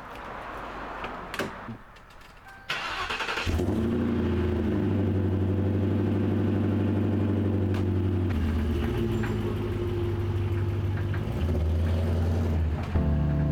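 Volkswagen Golf Mk4 engine cranking briefly and starting about three seconds in, then running steadily at idle.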